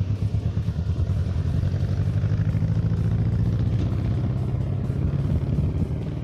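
Jet airliner engines rumbling on a landing approach: a loud, steady low rumble with a fast flutter.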